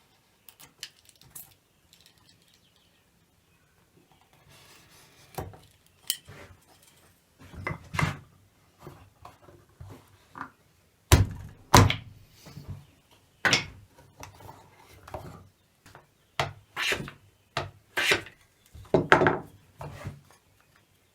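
Irregular wooden knocks and thunks, with some scraping, as knife cuts are made along a 1x2 board to split a strip off it. The knocks start sparse and come thicker and louder in the second half.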